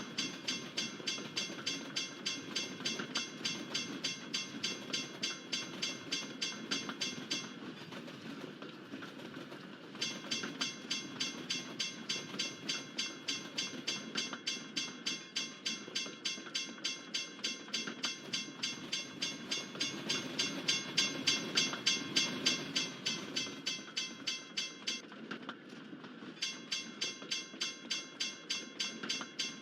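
Railroad crossing bell ringing at about two to three strikes a second over the steady rumble and clatter of a passing freight train's cars. The bell drops out briefly twice.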